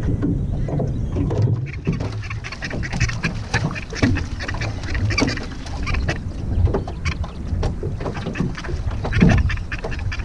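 A bird making repeated harsh, quacking calls in short, irregular bursts, over a steady low rumble.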